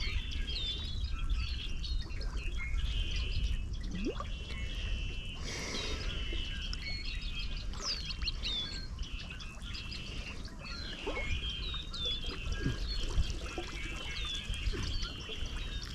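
Many birds chirping and calling over a steady low rumble, with a brief rush of noise about six seconds in.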